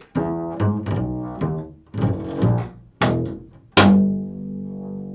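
Plucked bass strings, a handful of low notes picked out one after another in a slow improvised line; the last and loudest note, near the end, rings on and slowly fades.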